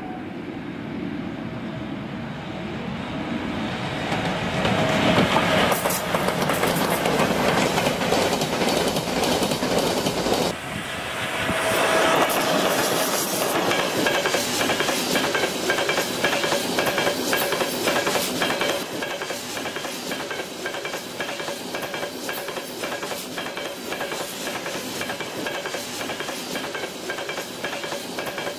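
An electric freight train passes close by. The sound grows as it approaches, then the wheels of the open freight wagons clatter in a fast rhythm over the rail joints. In the last third the sound settles into a quieter, steady rolling with a faint whine.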